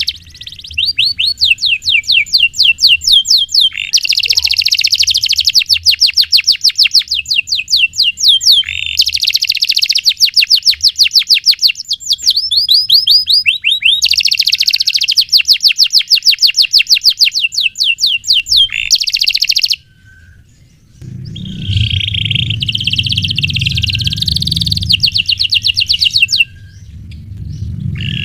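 Domestic canary singing long rolling trills: phrases of very rapid repeated high notes, each lasting a few seconds with short breaks between. About two-thirds through the song stops briefly, then resumes over a low rumble.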